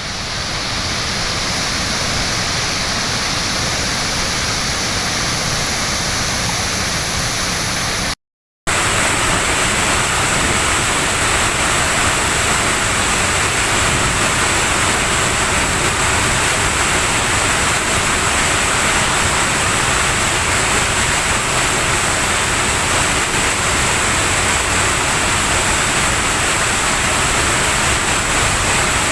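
Waterfall in rainy-season flood, a steady rush of falling water. It breaks off for a moment about eight seconds in and comes back a little louder.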